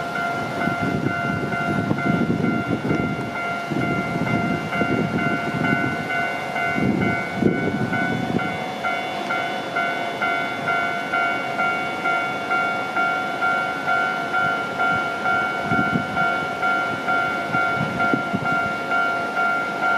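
Japanese level-crossing alarm bell ringing in a steady, even repeating rhythm, while a train rumbles past for the first several seconds and then fades away, leaving the alarm ringing on its own.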